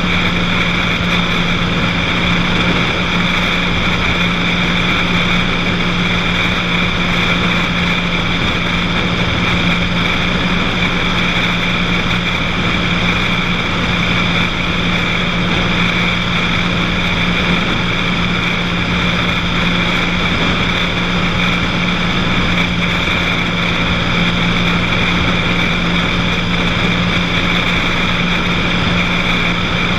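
Cessna 182 light aircraft in cruise, its piston engine and propeller making a loud, steady drone with a constant low hum that does not change.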